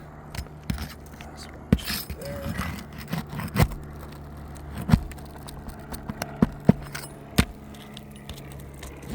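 Metal roof snake working under brittle asphalt shingles to pull roofing nails: scraping, with several sharp metallic clicks and snaps spread through.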